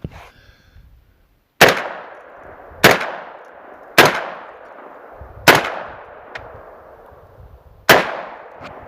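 Five shotgun blasts from a VR60 pump-action 12-gauge shotgun, fired at irregular intervals of about one to two and a half seconds, each followed by a fading echo. The gun cycles all five without a malfunction.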